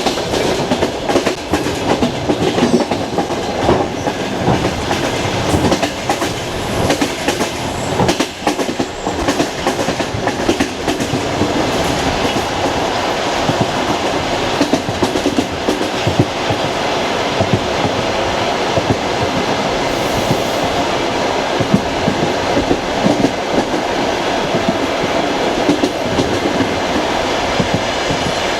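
Passenger train carriage running along the track, its wheels clattering over the rail joints over a steady rolling rumble. The clatter is busier and more irregular in the first half, then settles into a smoother, even rumble.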